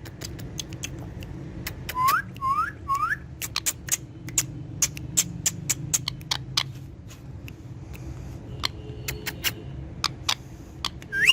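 Parrot giving three short rising whistles about two seconds in and another rising whistle near the end, among many sharp clicks and ticks.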